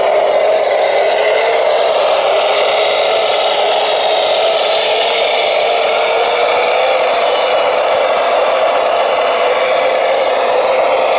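Radio-controlled model vehicle running, its motor and gear whine rising in pitch at the start and then holding steady.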